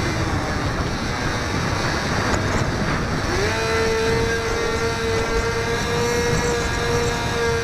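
Electric motor and propeller of a HobbyZone Firebird Delta Ray RC plane, heard from a camera mounted on the plane, with wind rushing over the microphone. The motor's whine is throttled back at first, then rises again about three seconds in and holds a steady pitch.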